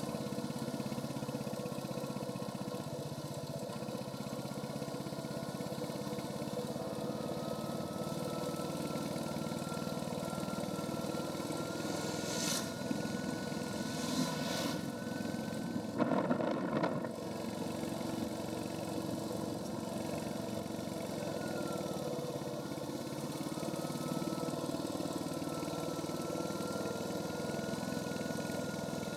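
Royal Enfield Hunter 350's single-cylinder engine running under way through its stock exhaust, its pitch creeping slowly upward, sliding down once a little past the middle, then climbing again. A few brief loud rushes of noise come about halfway through.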